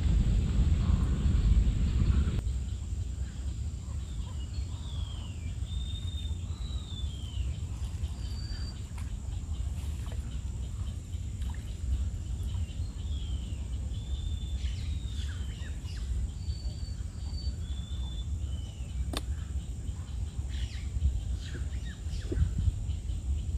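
Birds singing in short, repeated whistled phrases over a steady low rumble of wind on the microphone. A louder rumble at the start cuts off about two seconds in, and there is one sharp click later on.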